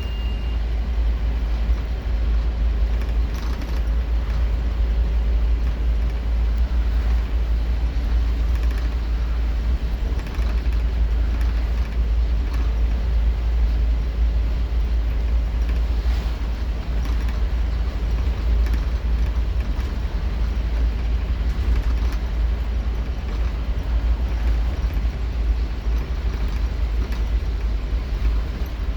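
Scania K230UB Omnilink single-deck bus running under way, its engine giving a loud, steady deep rumble with road noise over it.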